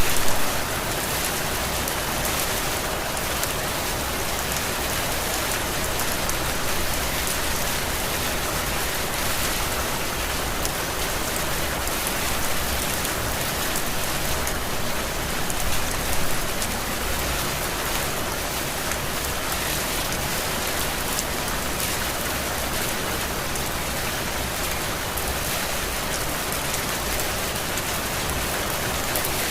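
Heavy rain falling steadily, a dense even hiss with no let-up. It swells briefly at the very start and again about sixteen seconds in.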